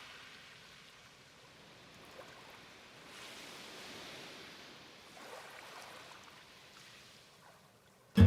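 Faint, soft swishes of a sumi ink brush stroking across paper, swelling twice in the middle, over a quiet background hiss.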